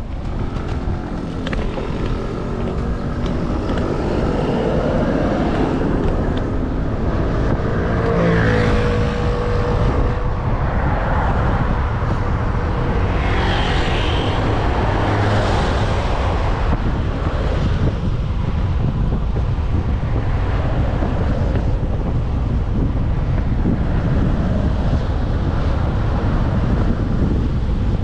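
Wind buffeting the microphone of a moving bike, over road traffic. A motor vehicle's engine note rises and falls as it passes, from about four to ten seconds in.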